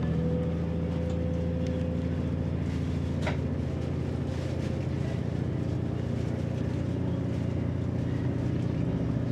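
Diesel train engine running steadily at an even pitch, with one sharp click about three seconds in.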